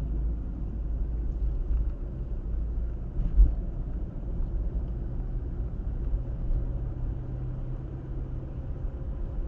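Road and engine noise of a moving car, a steady low rumble with a faint steady drone over it, and a single thump about three and a half seconds in.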